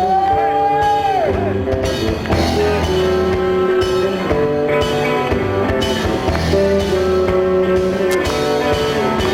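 Live rock band playing a song's instrumental intro: guitars, bass and drums, with a long bent high note in the first second or so.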